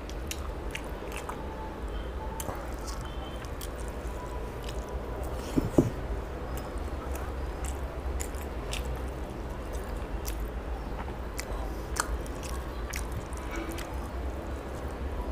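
Close-up mouth sounds of a person chewing rice and fish curry, with wet squishing and small mouth clicks and smacks, and fingers squishing rice on the tray. Two sharper clicks come about six and twelve seconds in, over a steady low hum.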